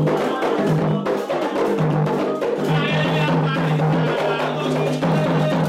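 Candomblé atabaque drums playing a continuous ritual rhythm, the rum (the lead drum) leading the dance of an orixá.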